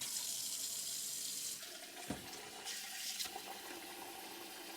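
Tap water running into a pot of rice being washed, starting suddenly and strongest for the first second and a half, then running lower with short splashes as the rice is rinsed.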